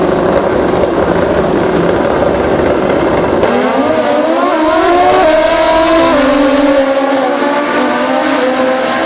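Drag-racing motorcycle engine: a loud low rumble, then from about three and a half seconds in the engine note climbs in steps with short dips between them as the bike accelerates hard through its gears down the strip.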